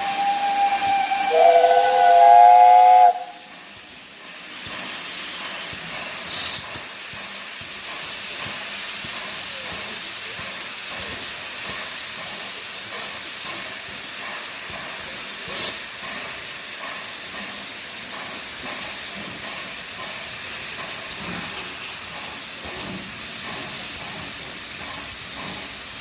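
Steam locomotive whistles: a single high note, then a lower whistle of two or three notes together that cuts off about three seconds in. After that, a steady hiss of escaping steam from the departing locomotives.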